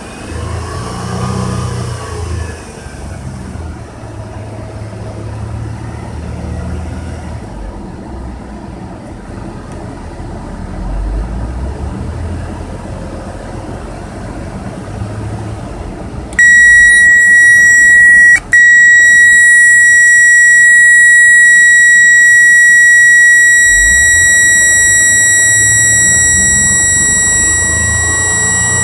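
Car engine running with an uneven low rumble for the first half, then a loud, steady high-pitched electronic tone cuts in suddenly, drops out once for a moment and sounds on to the end. The car shows a bad alternator, with brake and battery warning lights on.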